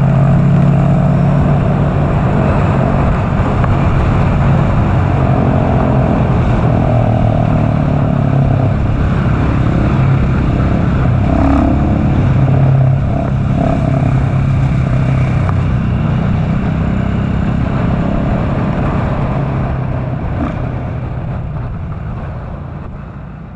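KTM SMC R supermoto's single-cylinder engine running under way at fairly steady revs with small rises and falls, over steady wind rush, fading out near the end.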